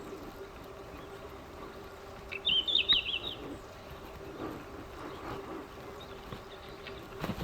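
A small songbird calls once about two seconds in: a quick run of high, jittery notes lasting about a second, over a faint steady hum.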